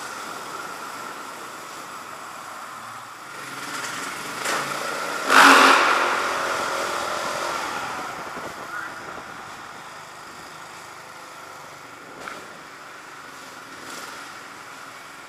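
Freestyle motocross dirt bikes running and revving, with one loud revving surge about five seconds in that fades away over a few seconds, and smaller revs later on.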